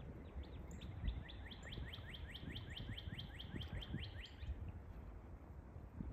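A songbird singing a trill of quick downward-sliding notes, about five a second, that builds in loudness and stops about four and a half seconds in.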